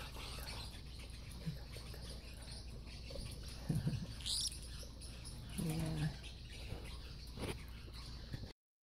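A parrotlet gives one short rising chirp about four seconds in, over faint rustling from handling and a low steady hum.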